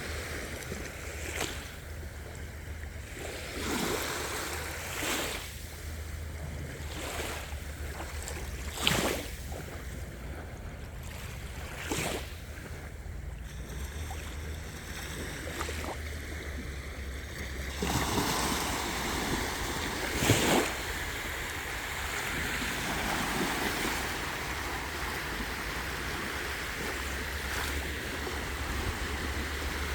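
Sea waves breaking and washing onto a beach, with a steady low wind rumble on the microphone. The wash of surf grows fuller a little past halfway.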